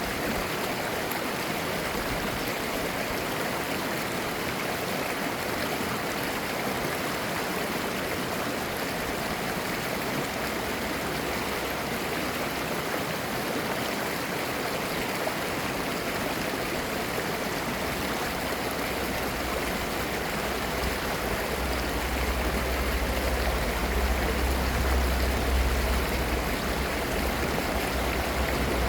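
Clear mountain stream flowing and babbling over rocks in a steady rush of water. A low rumble swells under it in the second half.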